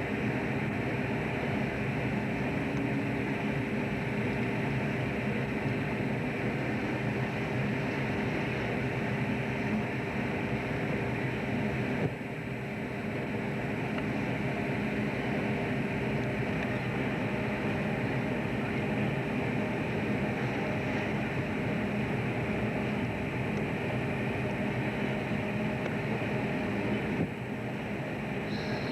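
Fishing boat's engine and machinery droning steadily, a constant hum with a few steady tones, heard on board. The level dips briefly about twelve seconds in and again near the end.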